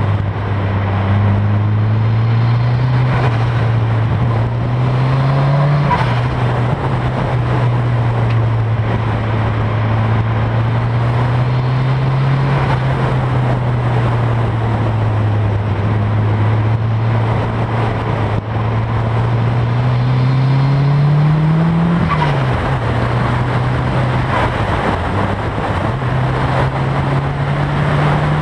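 Nissan S13 Silvia's turbocharged SR20DET four-cylinder engine running on track, its revs climbing and dropping again and again, with a long climb that falls away suddenly about six seconds in and another about twenty-two seconds in.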